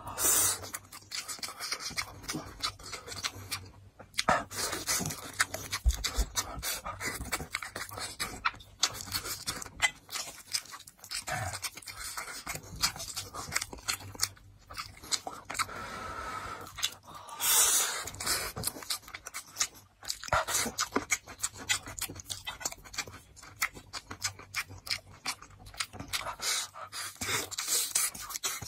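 Close-miked wet chewing and lip-smacking of braised pork belly and rice, a dense run of small mouth clicks and smacks with a few brief pauses.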